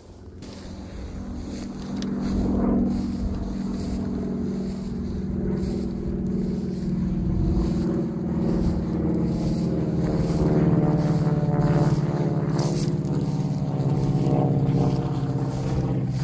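An engine running steadily with a low hum, growing louder over the first two seconds and then holding.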